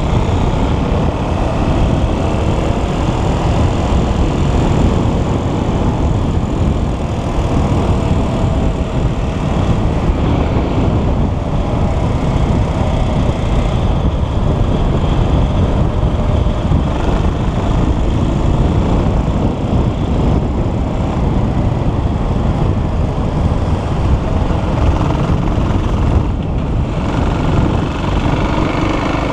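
Motocross bike engine running while riding, its pitch rising and falling with the throttle over a heavy, steady rumble.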